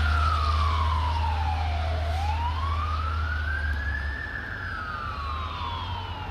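Fire engine siren on a slow wail: the pitch falls, rises and falls again in long sweeps, fading steadily as the truck moves away. A low engine rumble runs under it and drops away about four seconds in.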